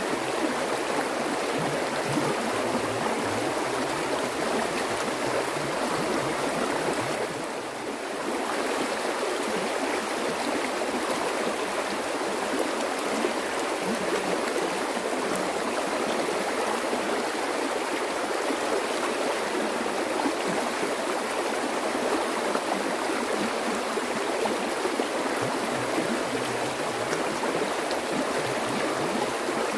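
Flowing water running steadily in a continuous rushing babble, with a brief drop in level about eight seconds in.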